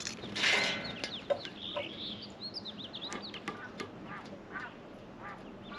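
Birds calling at a feeder: one loud, harsh, rasping call about half a second in, then a flurry of short high chirps mixed with small sharp ticks.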